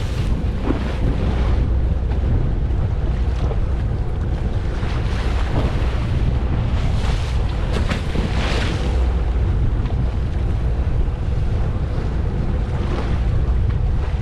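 Wind buffeting the microphone over waves washing against a fishing boat, with a steady low rumble and a few louder surges of water about five and eight seconds in.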